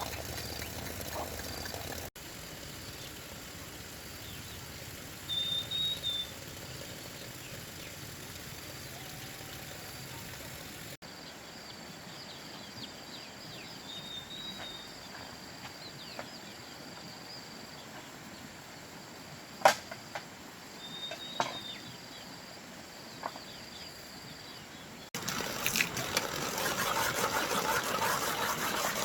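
Outdoor rural ambience in several abruptly cut segments, with a few short high chirps, a sharp knock about two-thirds of the way through, and a louder, busier stretch of noise near the end.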